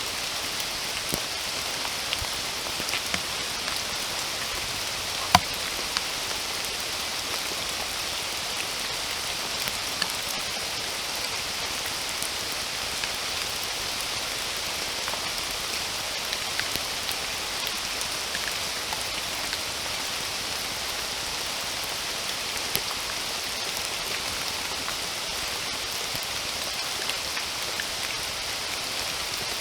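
Steady rain falling, an even hiss with scattered louder drops ticking through it; one sharper drop lands about five seconds in.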